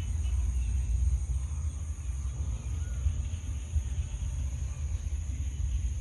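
Steady low rumble that flutters in level, with a faint steady high hiss above it.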